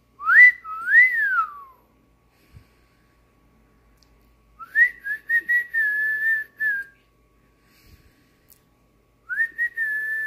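Whistled notes: two up-and-down whistles in the first two seconds, then a longer, slightly wavering whistle about halfway through, and a shorter one near the end.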